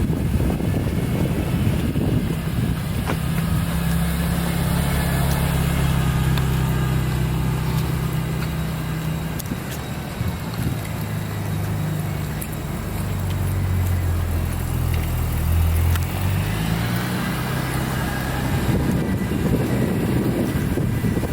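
2001 BMW M Coupe's engine idling steadily after a cold start, its low tone shifting slightly in the middle.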